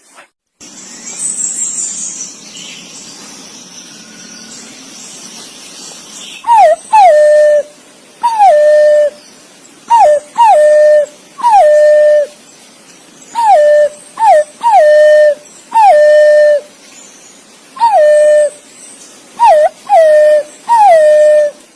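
Green pigeon (punai) calling: a series of about fourteen whistled notes, each sliding down and then held briefly on a lower pitch, some coming in quick pairs. The calls begin about six seconds in, after a few seconds of hiss.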